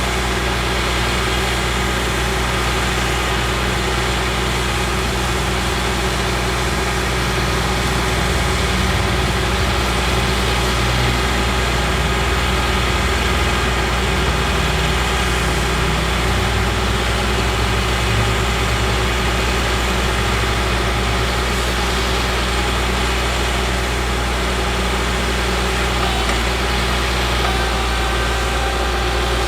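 A Caterpillar C7 diesel engine in a Ford F750 bucket truck, running steadily at an even idle.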